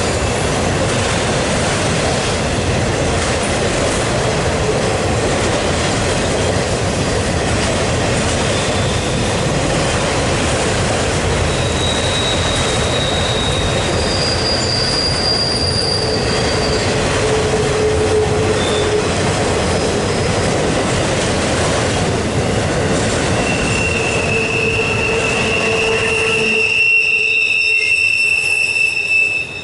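Freight train of autorack cars rolling past on steel rails: a steady rolling noise with wheel squeal in thin high tones that come and go. Near the end the low rolling noise drops away and one long squeal is the loudest thing.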